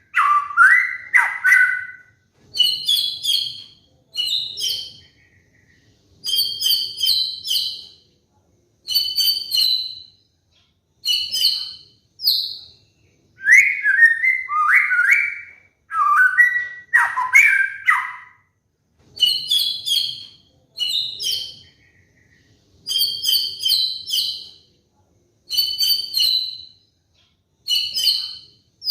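White-rumped shama (murai batu) singing loud, varied phrases about a second long with short pauses between them. Low sweeping whistled phrases near the start and again about halfway through alternate with higher, rapid chattering phrases.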